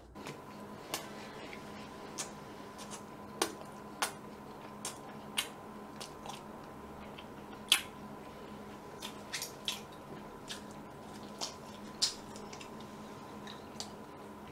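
A person chewing food close to the microphone: irregular sharp mouth clicks and smacks over a steady hum.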